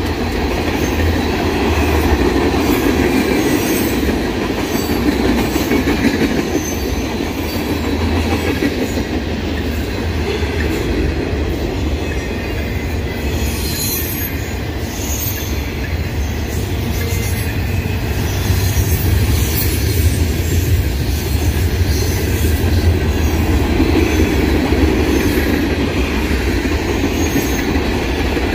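Freight cars of a long mixed freight train rolling past at close range: the steady noise of steel wheels running on the rails.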